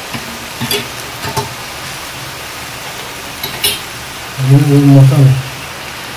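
Chicken frying in a pan with a steady sizzle, with a few clicks of a spoon stirring it. A low voice sounds for about a second near the end.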